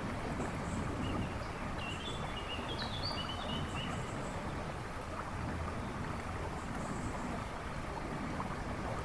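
River water rushing and babbling steadily. A songbird sings a short phrase of high notes about two seconds in, with faint chirps from other birds.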